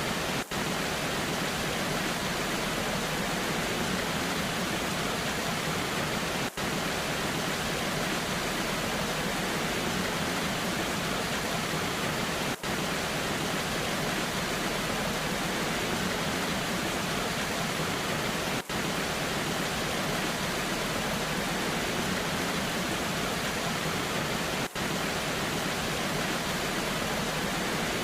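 Steady rushing of a waterfall in the rain: an even, unbroken hiss, with a brief dip in level about every six seconds.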